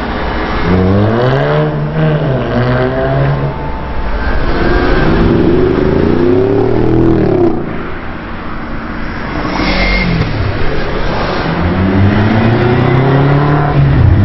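Car engine revving up and dropping back several times, with the pitch climbing and falling on each rev, under a steady background of engine noise.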